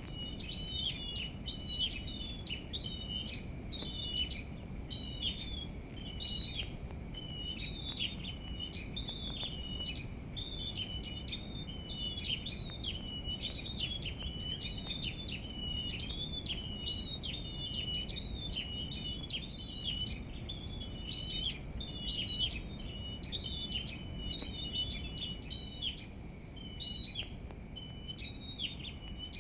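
Small songbirds twittering and chirping in a rapid, unbroken stream of quick high notes over a steady low background rumble, with a faint steady high whine.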